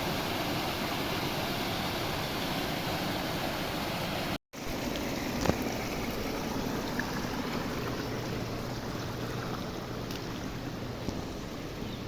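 Flood water rushing steadily, with a short break in the sound about four seconds in and a single click soon after.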